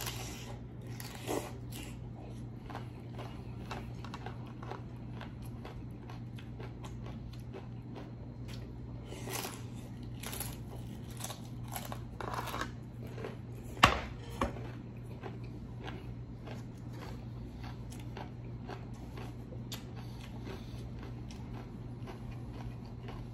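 Close-miked biting and chewing of a crunchy shrimp ceviche tostada: many small crackling crunches and wet mouth clicks, with one sharper crack about fourteen seconds in, over a faint steady hum.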